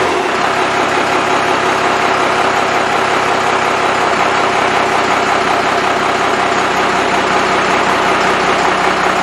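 Freshly rebuilt Cummins 5.9L 12-valve inline-six diesel running steadily at idle, loud and even.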